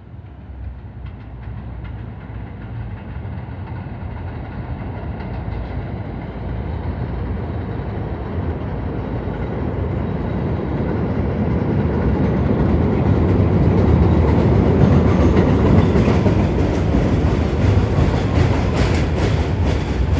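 R211A subway train rumbling along the track, growing steadily louder over about fourteen seconds, with a quick run of wheel clicks over rail joints near the end.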